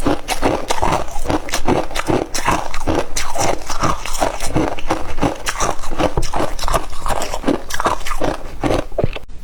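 Close-up crunching and chewing of crispy humidifier ice: a dense run of sharp crunches, several a second, that cuts off abruptly just before the end.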